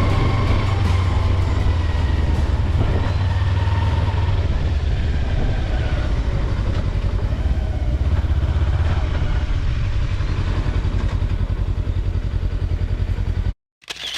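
Kawasaki Versys-X 300's parallel-twin engine running steadily under heavy wind and road noise while riding, cutting off abruptly near the end.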